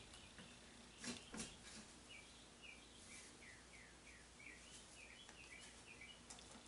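Near silence: a bird chirping faintly, short repeated chirps about two a second, with two small clicks about a second in from hardware being handled.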